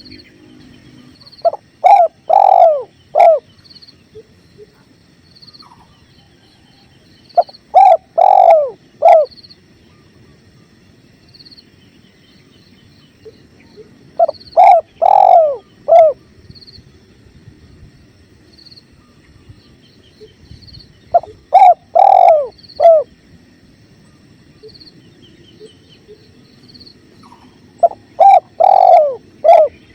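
Spotted dove cooing: a phrase of four or five deep coos, repeated five times about every six and a half seconds. Under it runs a faint steady rush of river water and a faint high tick about once a second.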